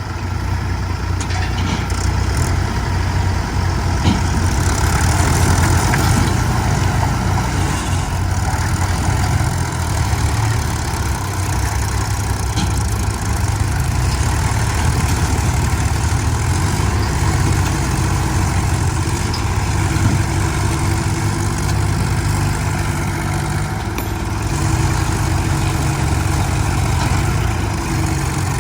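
Tractor diesel engine running steadily, with a continuous low drone.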